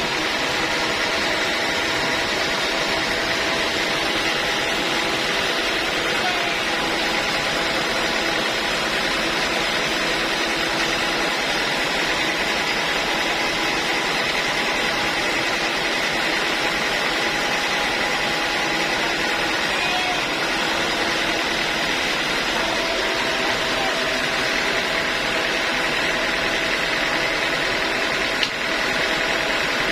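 Sawmill band saw running steadily: a constant machine drone with several held tones over an even noise.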